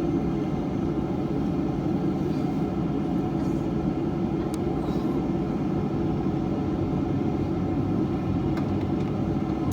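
Steady cabin hum inside a Boeing 737-800 on the ground before takeoff, from its CFM56 engines at idle and the air conditioning, with a few faint clicks.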